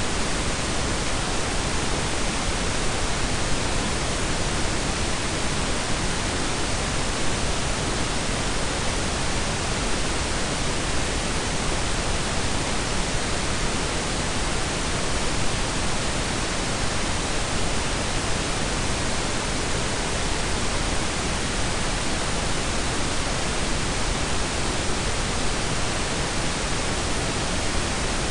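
Steady blend of pink and brown noise, a constant even hiss with a deep rumbling base that does not change.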